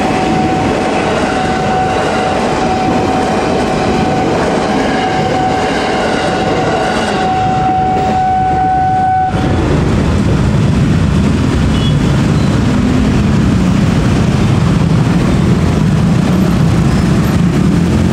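Electric commuter train running past the level crossing: wheel and rail noise with a steady high tone. About nine seconds in the sound changes abruptly to the low rumble of motorcycle engines at the crossing.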